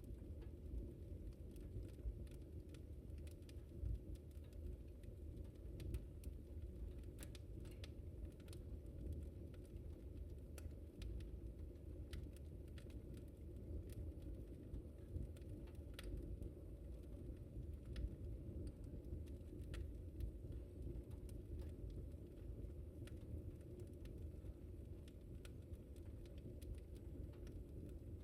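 Wood fire crackling in a fireplace: a steady low rumble of the flames with irregular sharp crackles and pops scattered throughout.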